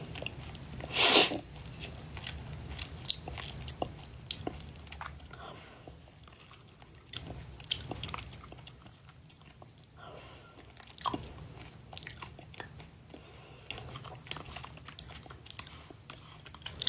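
A person eating yogurt close to the microphone: bites, chewing and small wet mouth clicks and smacks. There is one louder, sharper noise about a second in.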